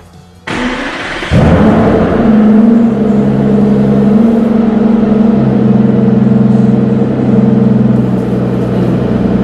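2009 Aston Martin DBS's V12 engine cold-starting: the starter cranks briefly, the engine catches with a loud flare about a second in, then settles into a loud, steady idle.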